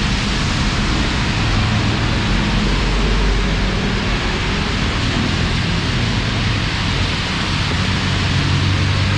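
Heavy monsoon rain pouring steadily, with a low rumble underneath.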